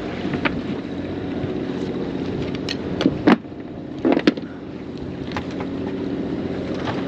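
A sailboat's inboard engine running steadily, with a few sharp clicks and knocks from the deck gear spread through, the loudest about three to four seconds in.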